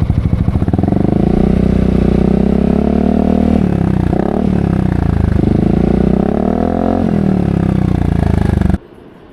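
Yamaha XMAX 250 scooter's single-cylinder four-stroke engine running through a ProSpeed aftermarket exhaust: it idles, then about a second in the revs rise and are held, dipping and rising again a couple of times. The sound cuts off suddenly near the end.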